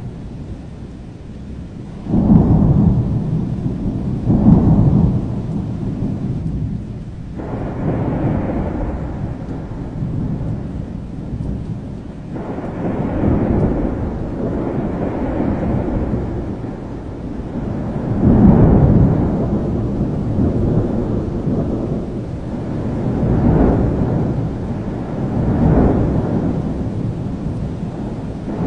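Thunder rumbling in repeated rolling swells over steady rain. The loudest peals come about two and four and a half seconds in, and again about two-thirds of the way through.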